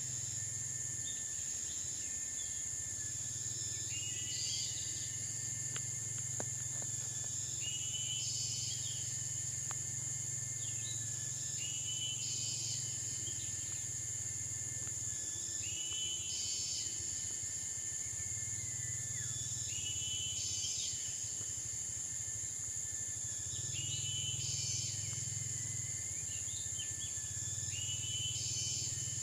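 Tropical forest ambience: a steady high-pitched insect drone, with a bird call repeating about every four seconds.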